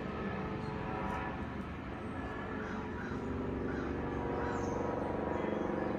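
A few faint bird calls, possibly crows, over a steady low rumble. About halfway through, a steady low hum like a distant engine builds under them.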